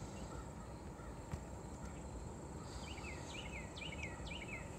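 Outdoor ambience with a steady low rumble and a faint, steady high-pitched tone, and a songbird singing a short series of about five quick downslurred chirps starting about three seconds in.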